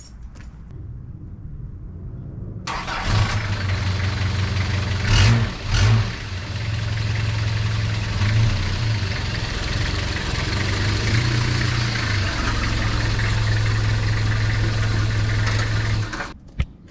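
London taxi engine starting about three seconds in and running at a steady idle, with two brief louder bursts a few seconds after it starts, then cutting off near the end.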